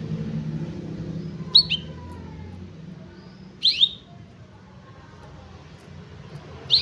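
Domestic canary giving three short, sharp chirps, each a quick falling sweep, about two seconds apart.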